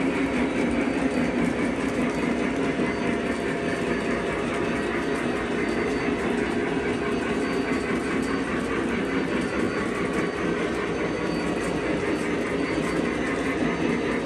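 O gauge model train running along three-rail track: a steady rolling rumble with wheel clatter.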